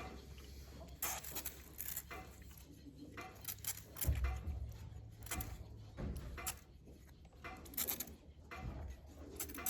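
Tools and metal parts being handled: irregular clinks, clicks and knocks, with a heavier thud about four seconds in and again about six seconds in.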